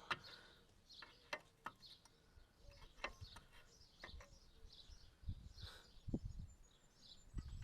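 Birds chirping, with scattered light clicks and a few dull low knocks in the second half.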